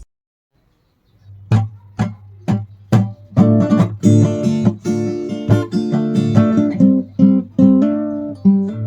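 Acoustic guitar played after a moment of silence: a few single plucked notes about two a second, then fuller picked chords that ring on.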